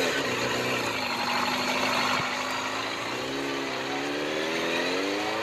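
Motor vehicle engine running as the vehicle pulls away, its pitch rising gradually through the second half.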